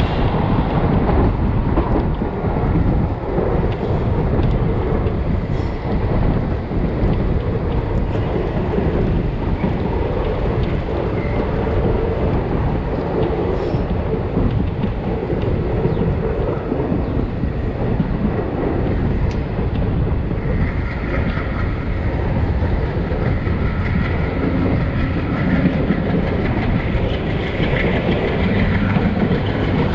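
Diesel-hauled passenger train running at speed, heard from on board: a steady, loud rumble of coach wheels on the rails with the clatter of rail joints.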